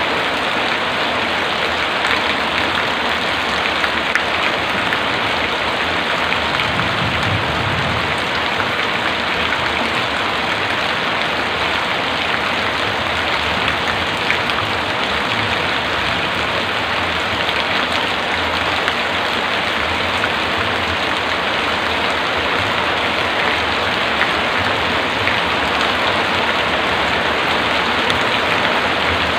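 Heavy rain falling steadily, an even hiss of dense drops, with a brief low rumble about a quarter of the way in.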